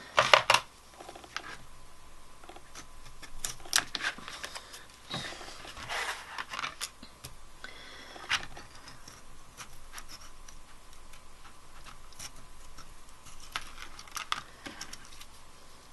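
Die-cut paper pieces being handled: rustling, light scraping and scattered small taps and clicks as the pieces are peeled off and fitted together.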